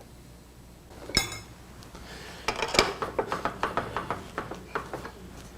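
A single ringing clink of hard objects knocking together, followed by a series of lighter knocks and clatter as things are picked up and set down on a workbench or lathe.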